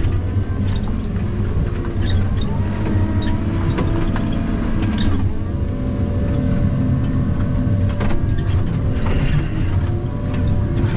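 Diesel engine of a log skidder running steadily under load, with scattered knocks and rattles from the machine.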